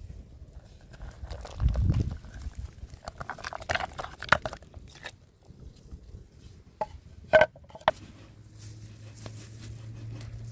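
Scattered knocks and clatter of hands-on cooking work, with a dull thump about two seconds in and a few sharp knocks near the end; a steady low hum starts about eight seconds in.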